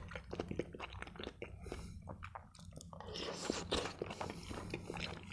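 Close-miked chewing of a mouthful of soft macaroni in ketchup: a run of small wet mouth clicks and smacks.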